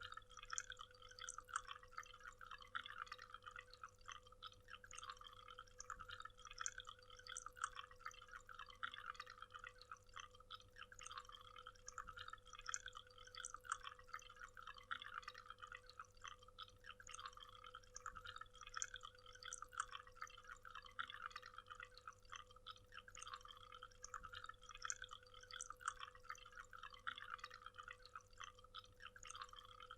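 Waterfall: water falling and splashing, a faint, even run of fine irregular splashes with no change, over a low steady hum.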